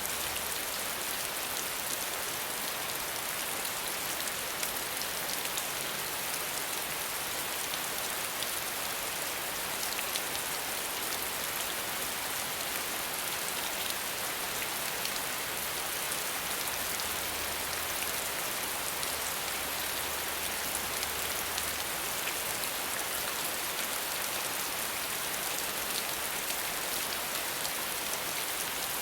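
Steady rain, a constant hiss of falling water with fine drop patter throughout and no thunder.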